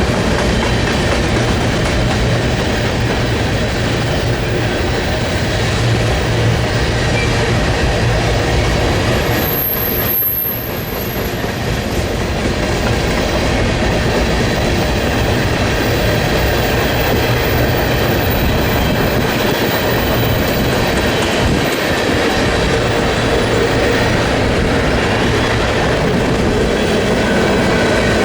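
Freight train cars rolling past close by, their steel wheels clicking over the rail joints, with a brief high wheel squeal about ten seconds in.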